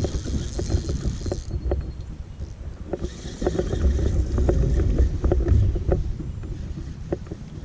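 Small fishing boat under way on the lake: a steady low rumble with many short knocks of the hull on the water, and wind gusting over the microphone twice.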